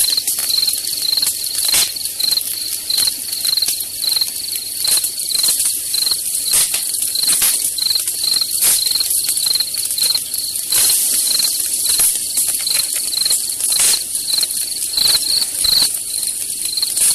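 Campfire crackling, with irregular sharp pops over a steady hiss, while crickets chirp in an even, high pulsing rhythm.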